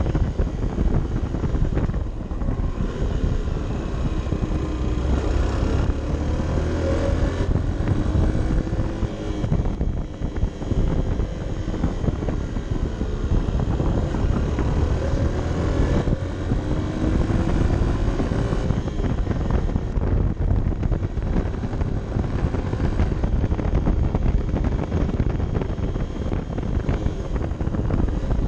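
Honda CB 125 F's single-cylinder four-stroke engine running under way, its pitch rising and falling several times with the throttle, with wind noise on the microphone.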